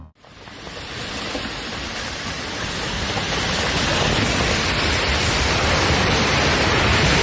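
Steady rushing noise, fading in as music cuts off and building over the first few seconds.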